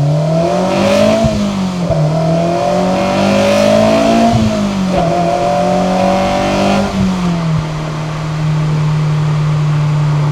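Honda S2000 four-cylinder engine and exhaust, an HKS 75mm catback with the catalytic converter still fitted, accelerating through the gears. The revs climb and drop three times, then the engine holds steady in the last few seconds.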